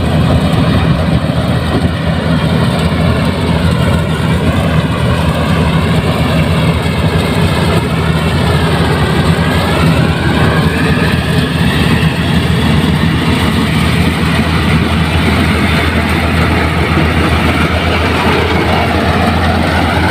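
Combine harvester running steadily while cutting chickpeas: a steady low engine drone with a higher whine from the machine that dips and rises in pitch partway through.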